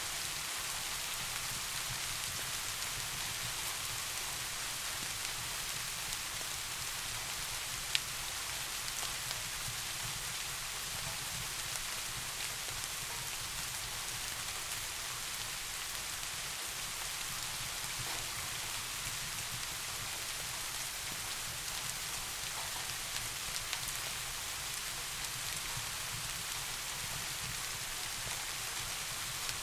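Steady soft rain, an even hiss of falling drops. A single sharp click sounds about eight seconds in.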